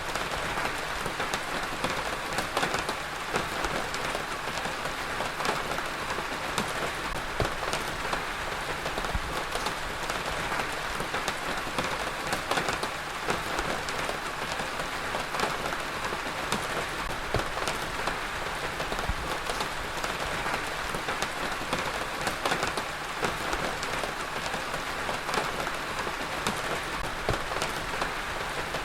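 Heavy rain falling steadily, a dense even hiss with the patter of many individual drops hitting a surface.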